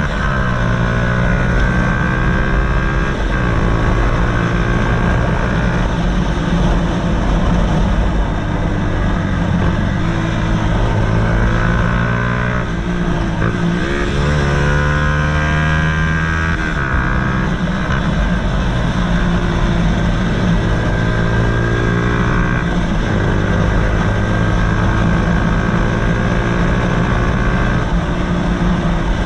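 Honda CBF125 single-cylinder four-stroke engine running through a DanMoto GP aftermarket exhaust, under way. The exhaust note holds steady for stretches, then shifts pitch in steps several times, with short glides up and down.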